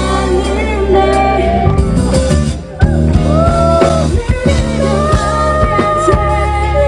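K-pop song played loud through a concert PA: a woman singing over a drum beat and band backing. The backing thins out for a moment a little under three seconds in.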